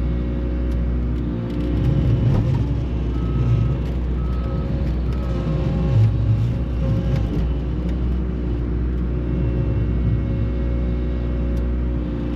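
A vehicle engine running steadily with a low rumble, with a few short high beeps a few seconds in.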